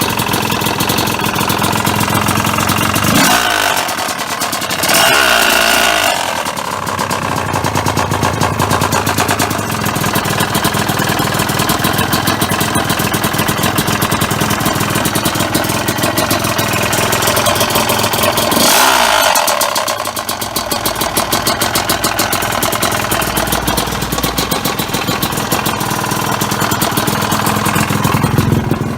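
Honda CR250R two-stroke engine running with a fast, clattery firing note. It is revved up and back down a few seconds in and again about two-thirds of the way through. The freshly rebuilt engine has a knock from the top end, which the owner takes for the piston knocking.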